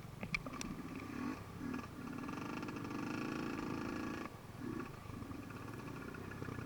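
Dirt bike engine running at a steady pitch, cutting out briefly about four seconds in and then picking up again. A few sharp clicks about half a second in.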